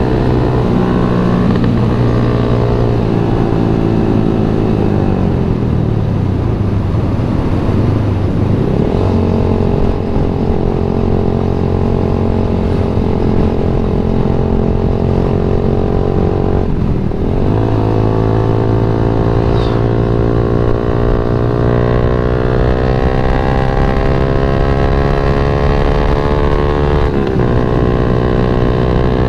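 Yamaha MX King 150's single-cylinder four-stroke engine under way: the revs fall off for a few seconds, then climb steadily, drop sharply at an upshift about 17 seconds in, climb again and drop at another upshift near the end.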